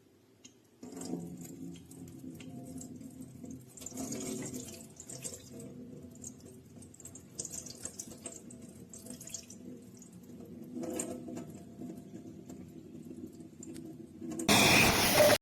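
Water running and splashing, with dripping, at a moderate level. It ends in a short, much louder rush of noise in the last second.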